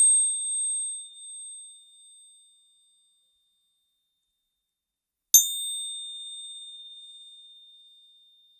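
A metal Bancomext commemorative piece clinking. A ring already sounding dies away over about two seconds, then a second clink about five seconds in rings on with a clear high tone for about three seconds.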